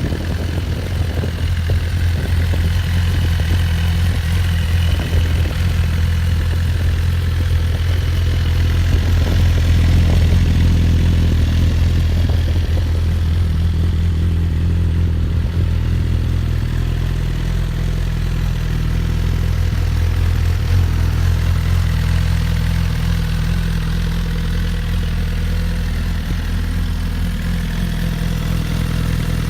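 2014 Suzuki GSX-R1000 inline-four sportbike engine idling steadily through a Yoshimura aftermarket exhaust.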